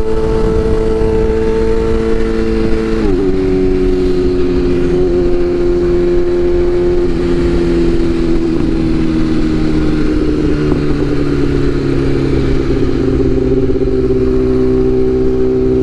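BMW S1000RR's inline-four engine running at steady road speed, with wind rush. The engine note drops suddenly about three seconds in, then falls slowly as the revs ease off.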